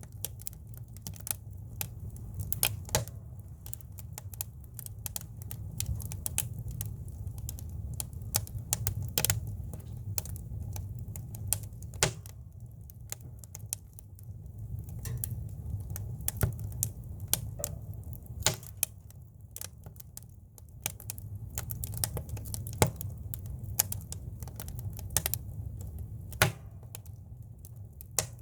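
Firewood burning in a campfire, crackling with irregular sharp pops, some louder than others, over a low steady rumble.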